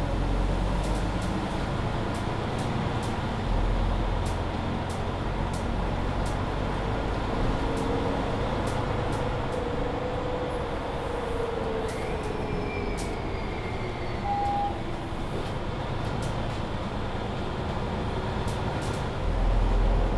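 Mercedes-Benz Citaro C2 hybrid city bus driving, its engine and Voith automatic drivetrain running steadily. A whine rises and then falls in pitch through the middle, with frequent light rattling clicks and a short beep about two-thirds of the way through.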